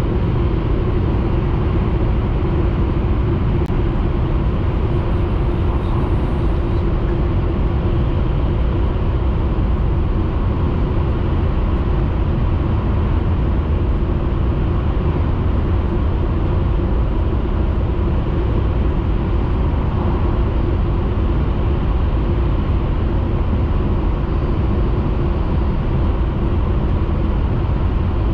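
Steady running noise of a Hayabusa Shinkansen train at speed, heard inside the passenger cabin: a constant low rumble with a faint steady hum.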